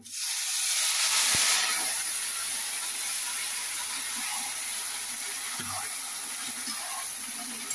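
Masala-marinated chicken pieces hitting smoking-hot oil in a steel kadhai: a sudden loud sizzle, strongest for the first second and a half, then settling into a steady frying sizzle.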